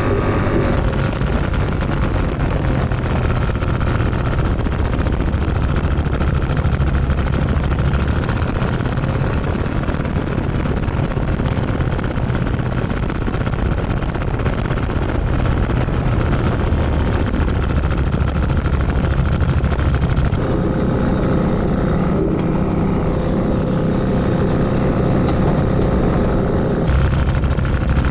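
SkyPup ultralight aircraft's engine and propeller running steadily in flight, mixed with wind noise, with a slight change in tone about twenty seconds in.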